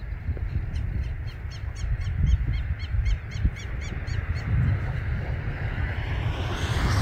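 A bird calling a rapid series of short, harsh notes, about four a second, that fades out after about four seconds, over a low wind rumble on the microphone.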